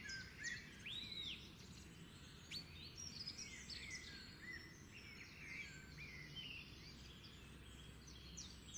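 Several birds chirping and calling with many short, high notes, one an arching whistle about a second in, over a faint steady low background noise.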